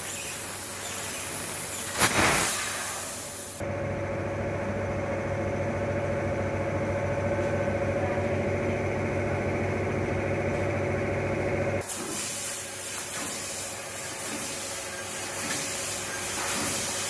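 CNC fiber laser cutter working sheet metal: a steady hiss of the cutting gas jet, with a sudden louder gust of hiss about two seconds in. For about eight seconds in the middle the hiss gives way to a steady machine hum with a held mid-pitched tone, and then the hiss returns.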